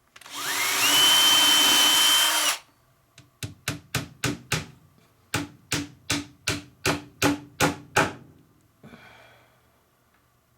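A power drill spinning up and boring a pilot hole in wood for about two seconds, its pitch rising and then holding steady. Then a hammer drives a nail into the wood with about a dozen quick strikes in two runs.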